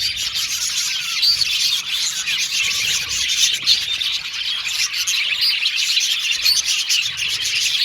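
A colony of budgerigars chirping and warbling together, a dense, unbroken chatter of many birds at once.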